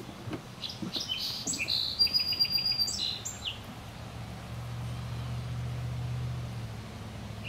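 Songbirds chirping and whistling, in a busy run of calls during the first few seconds, over a steady low hum that grows more noticeable later on.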